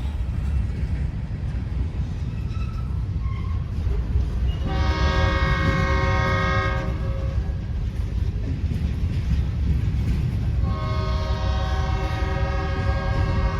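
Freight train locomotive sounding its air horn in two long chord blasts, the second one longer, over the continuous low rumble of the passing train.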